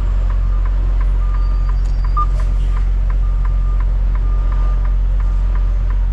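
A truck's back-up alarm beeping about once a second, over the steady low idle of a semi-truck's diesel engine, with faint regular ticking in between.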